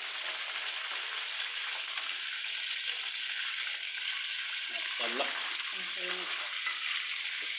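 Chicken pieces frying in hot oil, a steady sizzle.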